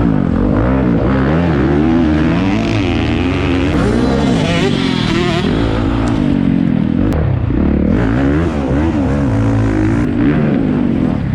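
Motocross bike engines racing, revving up and down over and over as the riders work the throttle, with more than one bike heard at once.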